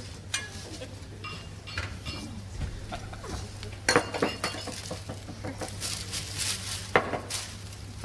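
Crockery and cutlery clinking and clattering, with two sharper clinks about four and seven seconds in, over a steady low hum.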